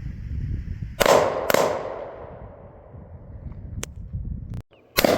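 Two gunshots about half a second apart, each with an echoing tail, then a third shot near the end. Wind rumbles on the microphone before the first shot.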